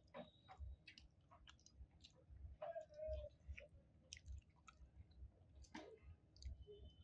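Faint, close mouth sounds of a person chewing sticky rice and chicken curry: irregular small wet clicks and lip smacks, with a short low hum near the middle.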